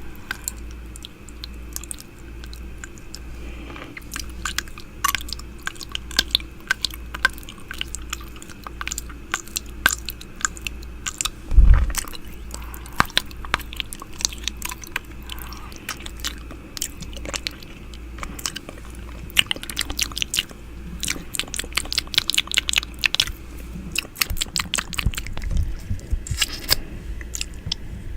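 ASMR 'ear eating' mouth sounds made close against a microphone: quick, irregular wet clicks, smacks and nibbling noises, with a single low thump about twelve seconds in.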